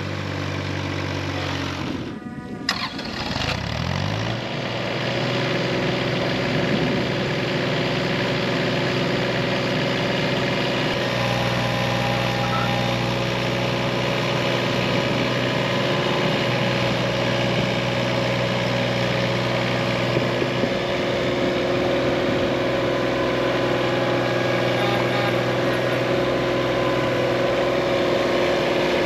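Case 1.7-tonne mini excavator's diesel engine running steadily; about three seconds in its pitch rises as it revs up, and it holds at the higher speed while digging.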